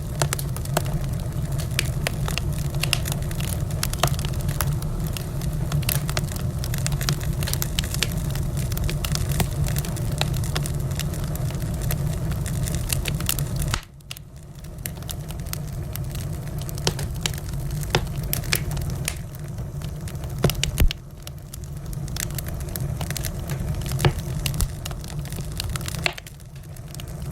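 Wood fire crackling in a fireplace: many sharp pops and snaps over a steady low rumble of the flames. The rumble drops suddenly about halfway through, and a few louder pops stand out later.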